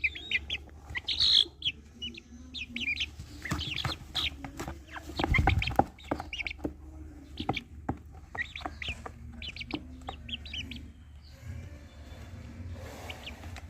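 A group of young Aseel chickens, about eight weeks old, peeping and chirping in many short, high calls, with a few clucks. A brief low thud comes about five and a half seconds in.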